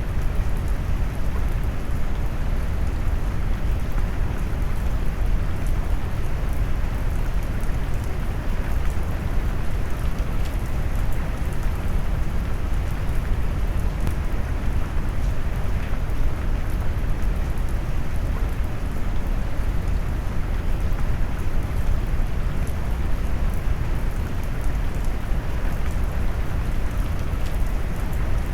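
Steady rain noise mixed with deep brown noise, heaviest in the low end, with faint raindrop ticks on top and no changes.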